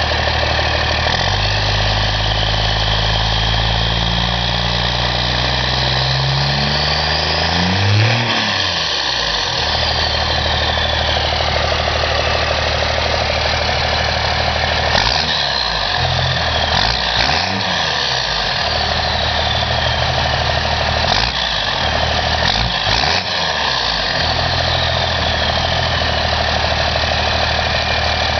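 A 1992 Dodge Cummins 5.9-litre inline-six turbo diesel runs through a 4-inch straight-pipe exhaust. It idles, is revved slowly to a peak about eight seconds in and let drop, then is blipped quickly four times in the second half. After each rev the turbo whistle winds down in pitch.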